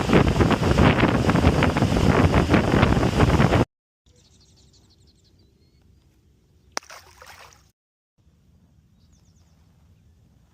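Loud rush of wind and water from a boat under way for about three and a half seconds, cutting off abruptly. Then quiet open-air ambience with faint high chirps and one sharp click near the middle.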